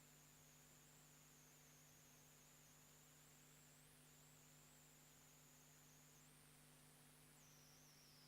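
Near silence: a faint steady electrical hum with a faint high whine that drifts up and down in pitch.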